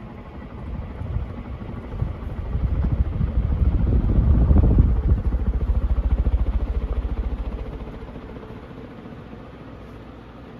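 HRS industrial ceiling fan speeding up to high: a low, rapid pulsing hum that swells to its loudest about four to five seconds in, then settles to a steadier, quieter run.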